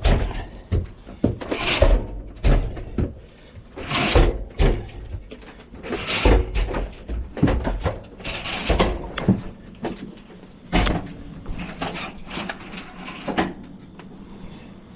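Hand truck's ratchet strap being worked tight: a series of irregular rasping strokes, roughly one every one to two seconds.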